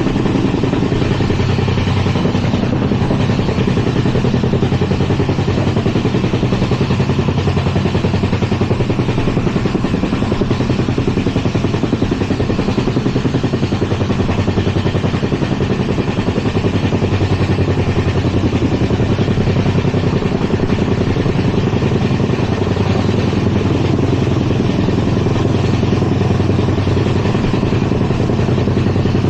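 Steady rumble and clatter of an LHB passenger coach running at speed, its wheels on the rails.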